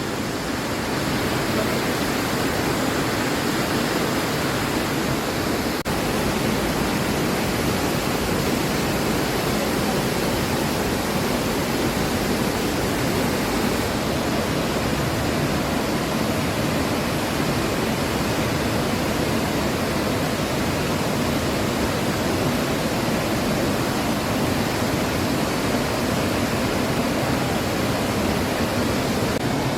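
Steady, loud rushing roar of Burney Falls, a tall waterfall plunging into its pool, an even wash of falling water with no change.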